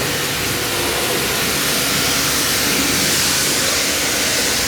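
Electric high-pressure washer running and spraying water: a steady hiss from the jet over the hum of the pump motor.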